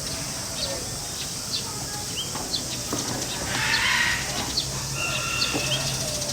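Small birds chirping, short high chirps about once a second, with a louder call in the middle and a held call near the end.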